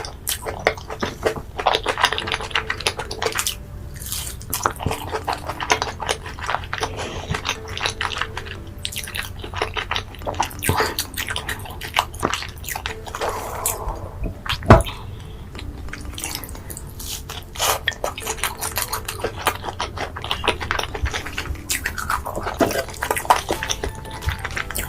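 Close-miked eating: steady crunching, biting and wet chewing and smacking in quick, irregular clicks and crackles, with one sharp knock about 15 seconds in.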